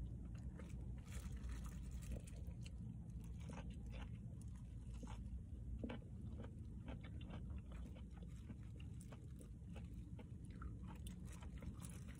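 Close-up wet chewing and smacking of a mouthful of mackerel and rice, with many small sharp clicks, the loudest about six seconds in, over a steady low rumble.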